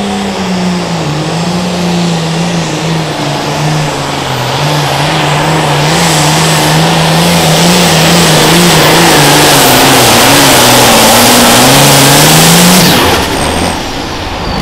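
Super farm pulling tractor's turbocharged diesel engine running at full throttle under load. It gets steadily louder, its pitch sags and recovers, and it drops off sharply about thirteen seconds in as the throttle comes off.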